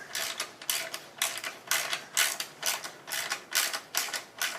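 Ratchet wrench being worked back and forth to back out a fender bolt, a quick burst of ratcheting clicks about twice a second.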